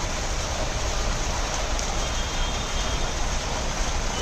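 Steady noise of street traffic: an even rushing hiss with a low rumble underneath.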